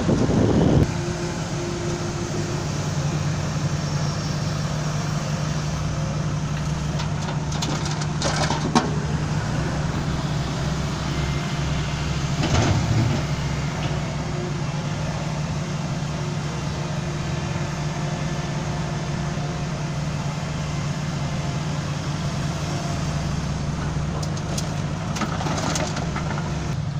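Heavy diesel engine idling steadily, with a couple of brief knocks partway through.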